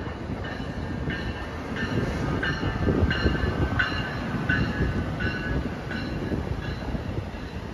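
NJ Transit electric train of Multilevel coaches rolling through the station, with steady rumble and a short high ringing tone that repeats about every two-thirds of a second.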